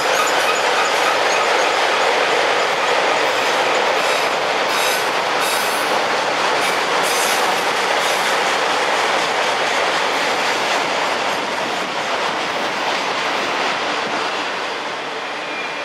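Railroad cars rolling past on steel rails, a loud, steady rumble of wheels on track. A high wheel squeal dies away in the first second, and the sound eases slightly near the end.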